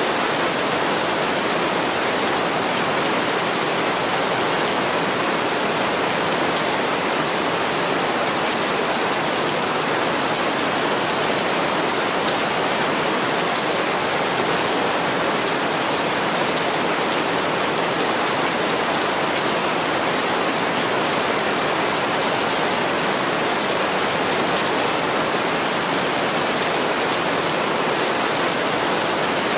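Heavy rain pouring steadily on a window pane, an even rushing hiss that does not change.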